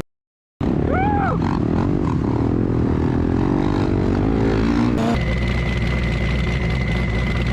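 Off-road vehicle engine running hard at high revs, then after a sudden cut a steady engine drone with a thin, even whine over it; a short shout comes about a second in. The engine noise belongs to a crash in which the throttle stuck open.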